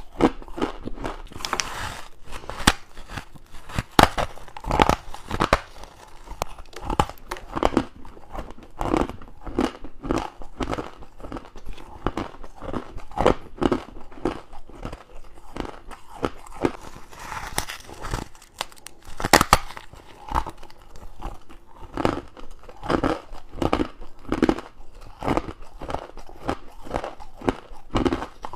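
Close-miked bites into crunchy frost and crushed ice, one crunching bite after another with no pause.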